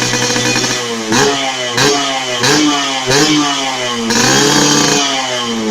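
Yamaha RX-King two-stroke motorcycle engine through an aftermarket racing exhaust, idling and then blipped four times in quick succession, followed by a longer rev that falls back toward idle near the end.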